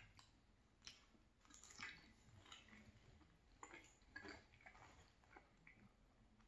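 Faint close-miked chewing of a mouthful of soft cavatappi pasta in creamy tomato sauce: an irregular run of small mouth clicks and smacks.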